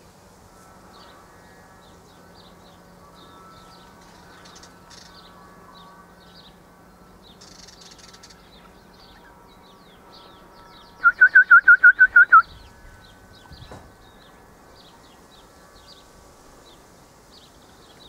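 A bird calls a quick run of about eight sharp, evenly spaced notes lasting about a second and a half, partway through. Faint high chirping goes on throughout, over a faint steady low hum.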